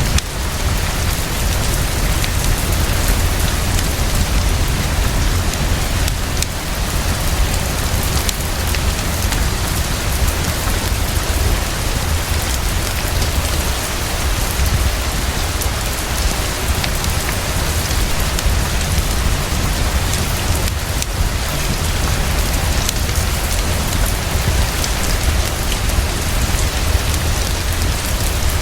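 Heavy, fast, steady rainfall with a constant deep low rumble underneath and scattered faint ticks through it.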